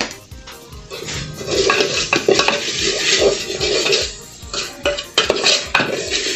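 A spoon stirring and scraping in a cooking pot: a run of repeated scrapes and knocks against the pot while vegetables and garlic are sautéed.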